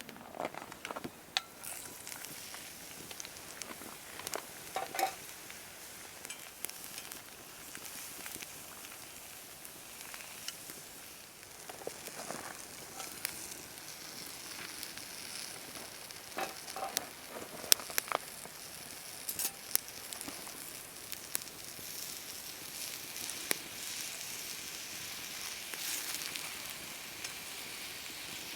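Food sizzling in a frying pan, with scattered sharp clicks and knocks of a utensil being used to stir it.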